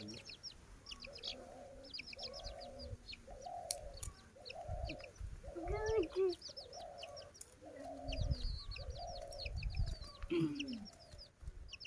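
Chickens clucking with a low call about once a second, under runs of quick, high chirps from small birds.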